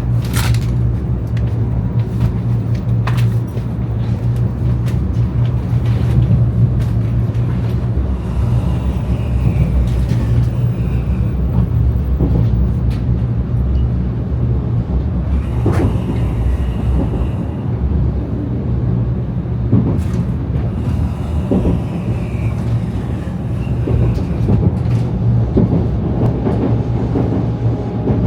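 Shinkansen bullet train heard from inside the passenger car while running: a steady low rumble with scattered clicks and knocks from the running gear.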